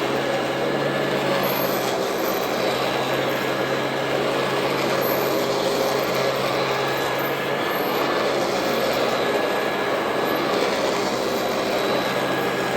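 Royal Model 2008 upright vacuum cleaner running steadily: a constant motor hum and whine over the rush of air.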